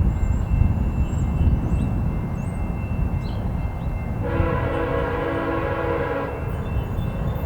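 VIA Rail passenger train headed by GE P42DC diesel locomotives passing at speed, with a heavy low rumble. About four seconds in, the locomotive's multi-note horn sounds one steady blast for about two seconds.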